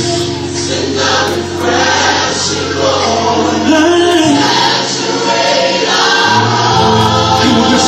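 Gospel worship song playing, with group singing over sustained bass notes that shift about four seconds in and again near six seconds.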